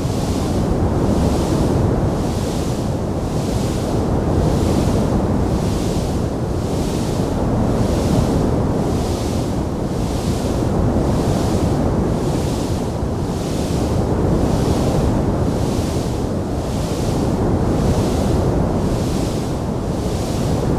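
Steady, low rushing roar of a wood fire burning in a fireplace. A fainter hiss swells and fades regularly, a little more than once a second, and no separate crackles stand out.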